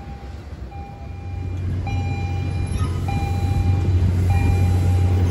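MBTA commuter rail train approaching, its deep diesel drone growing steadily louder from about a second in. A warning tone beeps about once a second throughout.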